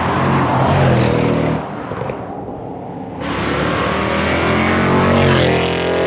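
V8 car exhaust, loud and accelerating. It drops back abruptly about a second and a half in, then picks up again and climbs steadily in pitch as the revs rise.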